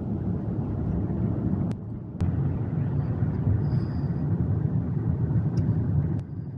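Car being driven: a steady low rumble of engine and road noise, briefly dropping away about two seconds in.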